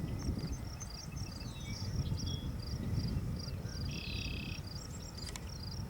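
Insects chirping in high, evenly repeated pulses, with a buzzy call about four seconds in, over a low rumble.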